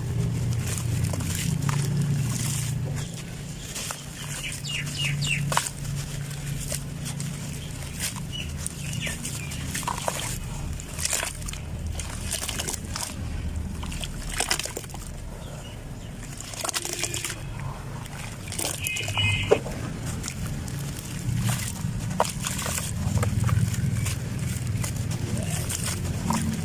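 Dry crumbly material, such as clumps of sand-cement or dirt, being crushed and crumbled: irregular crackles and crunches over a low steady hum. A few short high chirps come about five seconds in and again near nineteen seconds.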